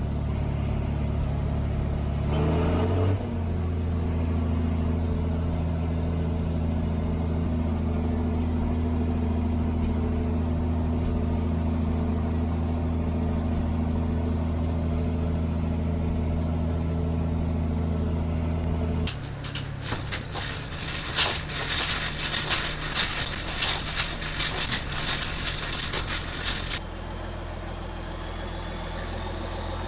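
John Deere 4430's six-cylinder diesel running steadily, seeming to run okay; its speed steps up about three seconds in. From about two-thirds of the way through, a clatter of sharp rattling knocks joins for several seconds over a lower engine note.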